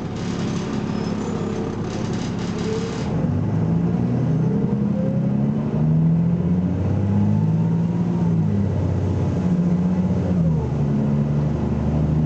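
BMC Belde 220-SLF city bus's diesel engine accelerating hard from inside the bus. Its pitch climbs, drops back as the gearbox shifts about eight seconds in and again near the end, then climbs again, with a faint rising whine above it.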